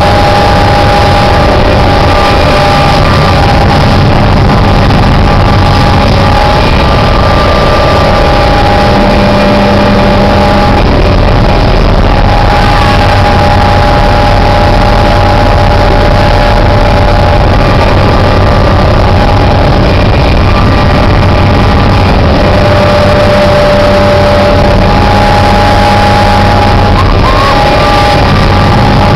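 Helicopter in flight heard from inside the cabin: loud, steady engine and rotor noise with a constant whine over it.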